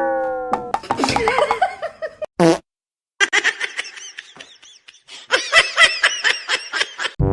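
Bouts of high-pitched laughter, with a short loud blast about two and a half seconds in. A falling tone fades out at the start.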